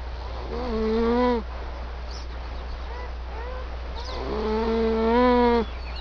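Two long, steady-pitched livestock calls, about a second each, with two fainter, short calls between them.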